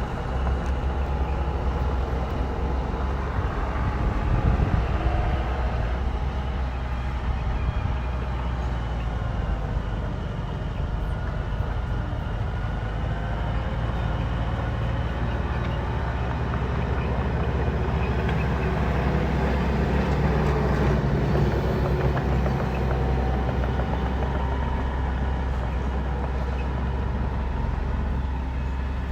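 Bulldozer's diesel engine running steadily under load, a continuous low drone with higher tones that drift up and down now and then.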